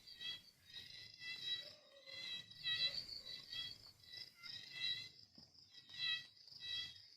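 Crickets chirping in repeated short, high-pitched chirps, several a second.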